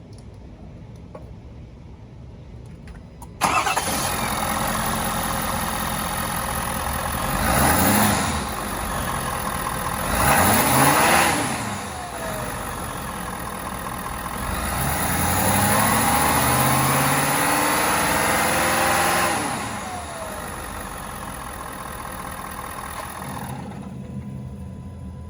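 2025 Ford F-250 pickup's engine starting, catching suddenly about three seconds in and settling to idle. It is revved in two short blips, then held at higher revs for about four seconds before dropping back to idle. The sound quietens near the end.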